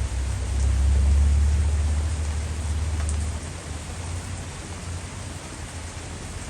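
Heavy rain falling steadily. A deep low rumble runs under it for the first few seconds, swelling about a second in and dying away after about three seconds.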